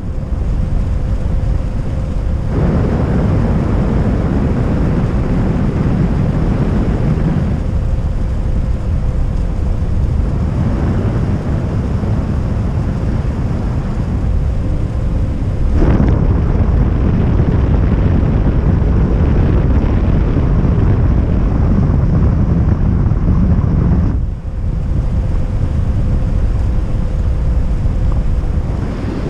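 Steady rush of wind over the microphone in an aircraft gliding with its engine off, with no engine sound. The rush strengthens and eases a few times, with a sudden sharp rise about halfway.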